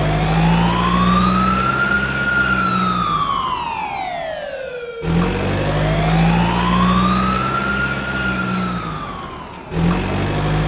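Slow wailing siren rising and falling over a steady engine hum. It breaks off and starts again abruptly twice, as a looped sound effect.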